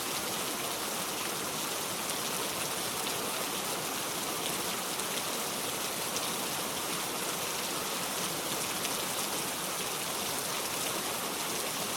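Steady rain falling, with the patter of many small drops.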